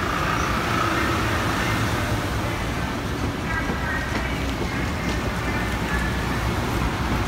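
Metro-North Budd M2 electric multiple-unit train rolling slowly past: a steady rumble of wheels on the rails, with faint high-pitched tones that come and go.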